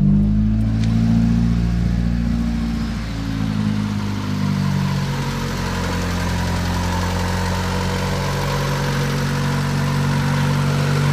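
Honda D16Y8 1.6-litre SOHC VTEC four-cylinder engine idling just after being started, its pitch wavering a few seconds in before it settles to a steady idle. It is the idle fault that the owner has been told is a vacuum leak.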